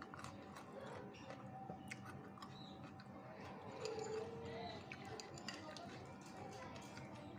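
Faint chewing of crisp ambarella (kedondong) fruit, with scattered small clicks of a metal spoon against a glass bowl.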